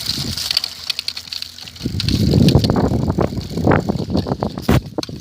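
Bicycle rattling and rumbling on a fast downhill ride, with wind buffeting the tablet's microphone. It gets louder about two seconds in, with sharp knocks from bumps in the ride.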